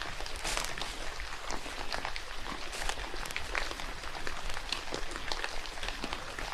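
Rain falling in a forest: a steady hiss with many separate drops ticking close by at irregular moments.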